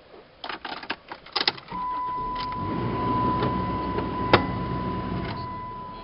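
Chrysler Sebring's engine starting up about two seconds in, swelling and then easing back toward idle, after a few clicks of keys and switches. A steady high warning chime tone comes in with it, and there is one sharp click near the end.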